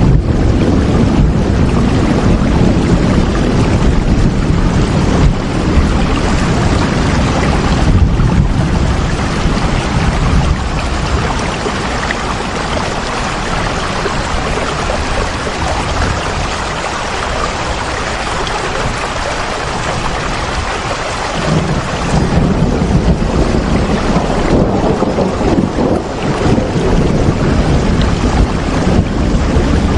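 Heavy rain falling steadily, with a deep rumble underneath that fades in the middle and builds again about two-thirds of the way through.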